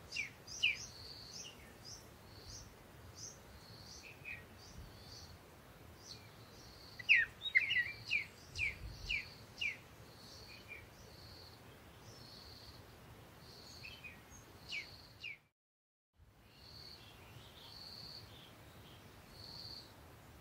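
Small birds chirping, with short quick notes and a repeated higher call. A burst of rapid chirps comes about seven to ten seconds in, and the sound cuts out completely for under a second a little after fifteen seconds.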